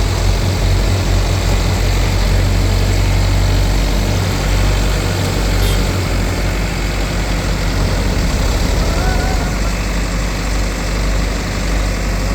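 Heavy diesel engine idling steadily, a low rumble that eases a little partway through.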